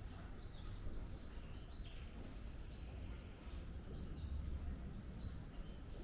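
Small birds chirping in short, high, repeated calls over a steady low rumble of outdoor background noise.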